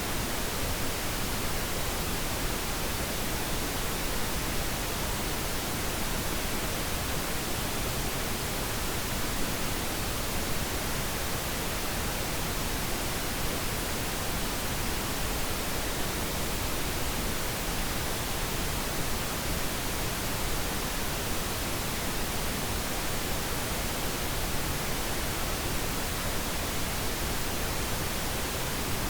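Steady pink noise: an even, unchanging hiss with no rhythm, tones or breaks.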